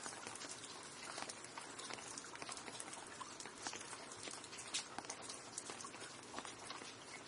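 Steady rain with many close, sharp drips and drop impacts ticking irregularly over an even hiss of rainfall.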